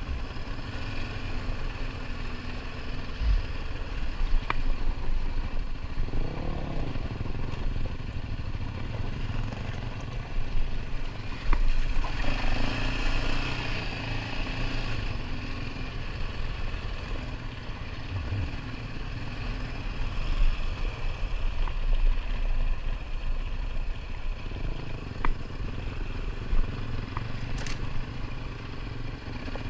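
ATV engine running steadily while riding a dirt trail, with a brief rise and fall in engine pitch about six seconds in. Occasional sharp knocks and clatter come through as well.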